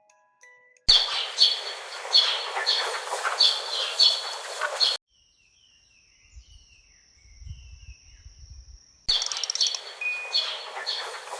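Wind chimes ringing in steady strikes over a hiss of wind, cut to a quieter stretch of faint bird chirps with a low rumble, then the chimes and wind again.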